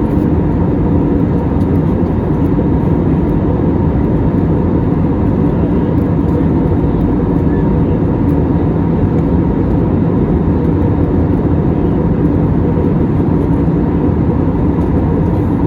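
Steady cabin noise inside a jet airliner: a constant low rumble of engines and airflow with a faint steady hum running through it.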